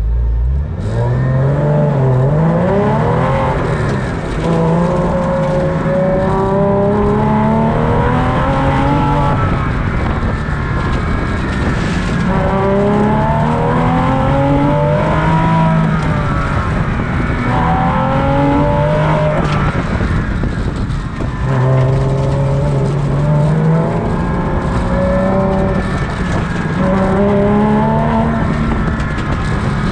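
2000 Porsche Boxster S's 3.2-litre flat-six driven hard on a lap, its pitch climbing under acceleration and falling away again and again as the car speeds up, shifts and slows for corners.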